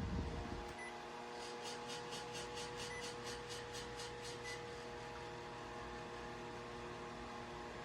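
Faint steady electrical hum made of several held tones over a light hiss. About a second in, a soft high ticking starts, about four ticks a second, and it stops after roughly three seconds.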